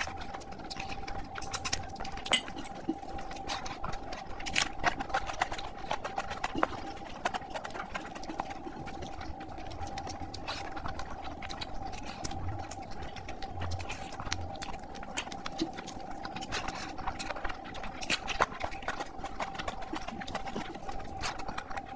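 Close-miked eating sounds: wet chewing and lip smacking of a mouthful of rice and meat curry, with soft squelches of fingers mixing rice and curry on the plate. A faint steady hum runs underneath.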